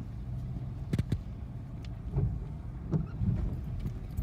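Car running, a steady low rumble heard from inside the cabin, with two sharp knocks about a second in.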